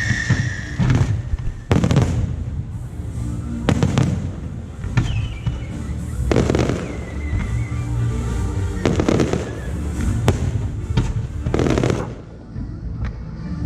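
Aerial fireworks shells bursting overhead, a string of loud bangs every second or two over a continuous low rumble, with a faint falling whistle partway through.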